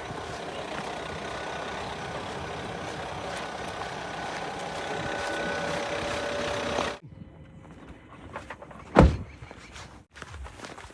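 A heavy diesel vehicle engine running steadily, which cuts off abruptly about seven seconds in. Then a quieter background with one loud, low thump near the nine-second mark.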